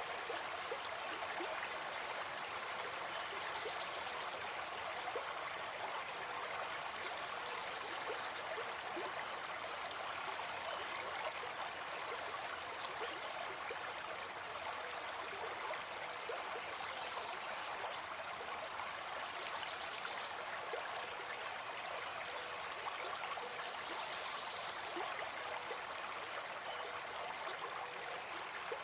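Gentle forest stream flowing, a steady, even rush of water.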